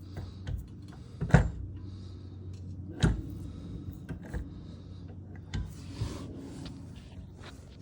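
Tools and suspension parts being handled: several separate sharp knocks and clanks, the loudest about a second and a half in and others about three and five and a half seconds in, over a steady low hum.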